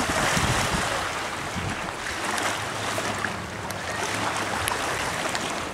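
Wind and water aboard a sailboat under way: a steady rush of noise, with gusts buffeting the microphone.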